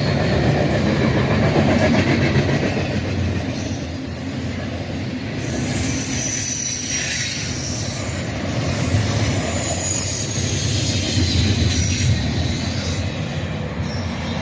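Freight train cars rolling past with a steady rumble, and thin high-pitched wheel squeal coming and going over it.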